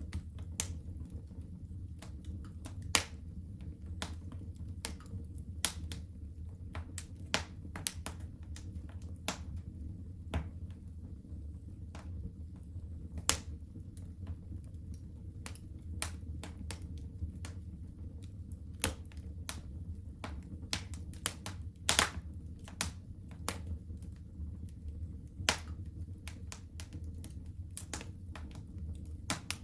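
Wood fire crackling in a fireplace: irregular sharp pops and snaps, several a second at times, over a steady low rumble. The loudest pops come about three seconds in and near the middle.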